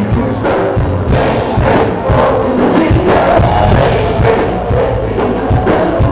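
Loud live band music with singing over a steady drum beat.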